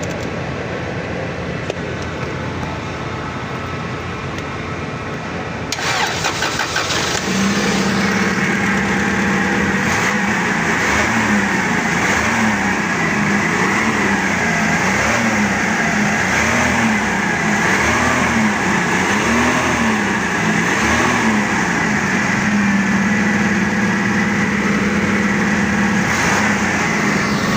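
Forklift's four-cylinder spark-ignition engine, newly fitted with four fresh spark plugs, is cranked and catches about six seconds in, after a steady hum. It then runs, its speed rising and falling over and over for about ten seconds before settling to a steady idle.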